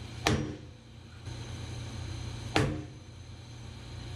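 Two hammer blows on a workpiece clamped in a milling machine vise, about two seconds apart, each a sharp strike with a short ring, over a steady low hum. The blows seat the part down flat in the vise.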